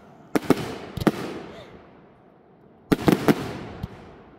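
Aerial fireworks going off: a few sharp bangs with fading echoes in the first second, a pause, then a quick volley of bangs about three seconds in and one more shortly after.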